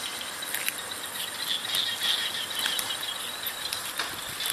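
Insects, likely crickets, chirping steadily in a high, wavering band, with a few faint clicks.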